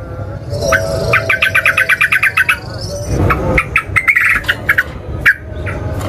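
Yellow-vented bulbul (trucukan) calling loudly: sharp, quick chirps, with a fast rattling run of repeated notes (the 'ropel' chatter) for about a second and a half near the start.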